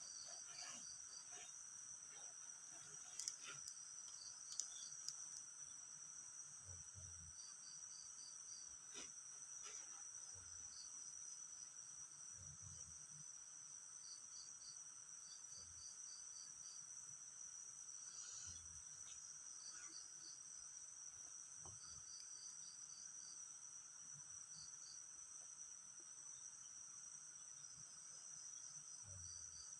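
Faint steady trilling of crickets and other insects, with short runs of rapid chirps repeating every second or two.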